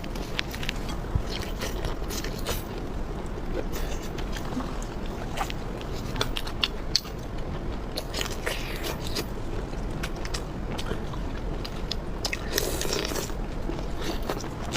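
Close-miked eating sounds: a person biting and chewing food, with many short sharp clicks and crunches throughout.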